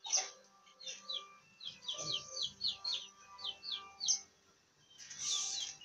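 Birds chirping over and over in short, quick falling notes, several a second, with faint steady tones behind them. A sudden noise comes right at the start, and a short hiss about five seconds in.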